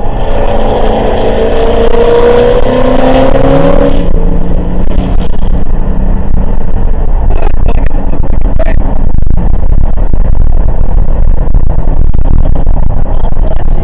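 Dodge Challenger's Hemi V8 under acceleration on a racetrack. The engine note rises for about four seconds, then drops and settles into a steady drone mixed with heavy road and wind noise.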